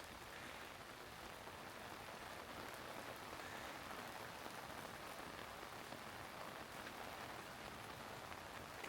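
Steady rain falling on surfaces around, an even hiss with a fine patter of drops.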